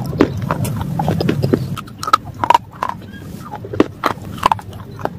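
Chewing of brittle dry grey shale pieces: a dense grinding crunch for about the first two seconds, then scattered sharp cracks and clicks as the bits are bitten down.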